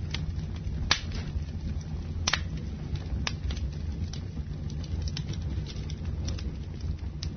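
Campfire of burning wood crackling, with sharp pops at irregular intervals, roughly one a second, over a low steady rumble.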